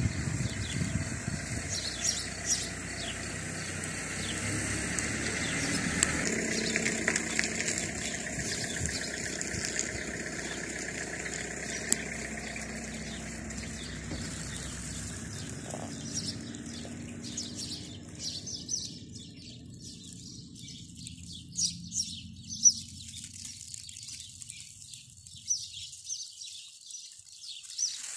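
Small birds chirping and twittering, many short high calls, over a low background noise that dies away about two-thirds of the way through, leaving the chirps clearer.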